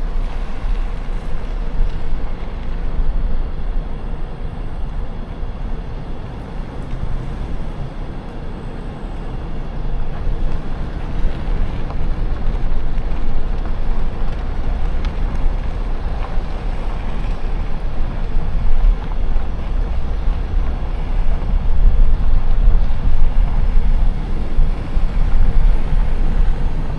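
Steady rumble and rushing of a vehicle travelling on the road, with wind buffeting the microphone and a heavy low drone.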